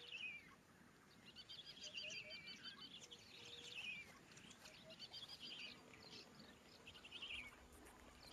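Faint chirping of small birds: about five short, high twittering phrases a second or so apart.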